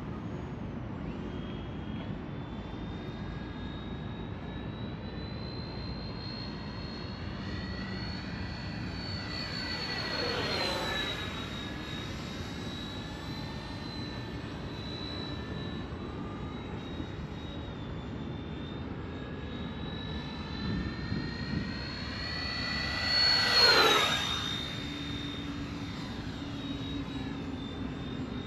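Twin 80 mm electric ducted fans of a Freewing A-10 RC jet whining in flight. The model makes two fly-bys, each with a quick falling-pitch sweep as it passes: about ten seconds in and, louder, near the end.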